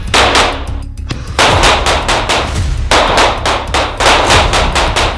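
Rapid pistol fire on a live-fire range: strings of quick shots, about four or five a second, with short breaks between the strings, over background music.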